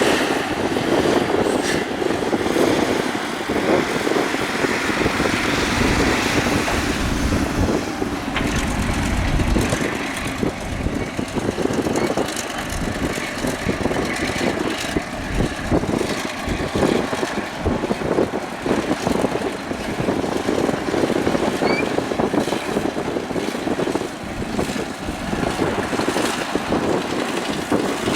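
Hydraulic excavator's diesel engine running under load as it works, with irregular knocks and clatter throughout. A deeper rumble swells for a couple of seconds about eight seconds in.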